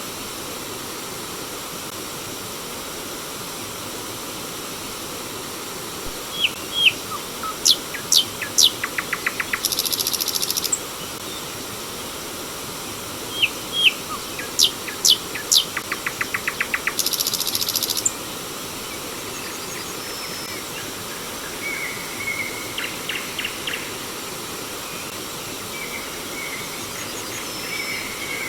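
Flowing stream water with a steady rush, over which a songbird sings the same phrase twice, a run of sharp whistled notes ending in a dense buzzy trill, about six seconds in and again about thirteen seconds in. Softer short chirps follow in the last third.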